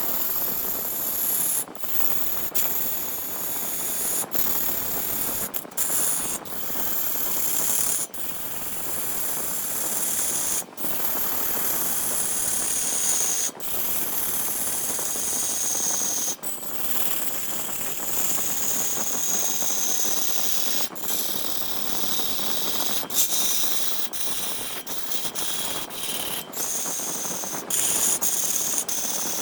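Large wood lathe spinning a wooden blank while a tool works the surface: a steady hiss with high whining tones that slowly shift in pitch. The sound breaks off for an instant many times.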